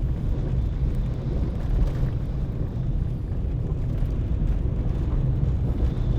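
Car driving along a road: a steady low rumble of tyres and engine with no sudden events.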